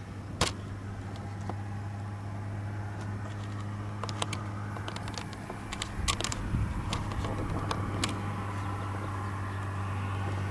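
Steady low hum of an idling engine, with a few sharp clicks scattered through it and a hiss that grows louder near the end.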